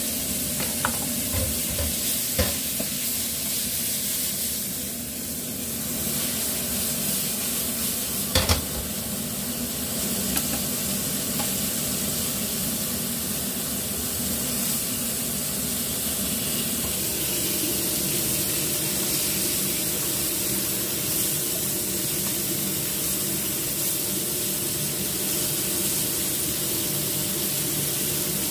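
Floured green mussels sizzling steadily as they fry in oil in a wok, with a few short sharp knocks, the loudest about eight seconds in.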